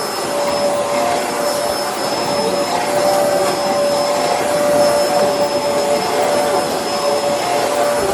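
Bissell Helix vacuum cleaner running steadily: a constant motor whine over the rush of air.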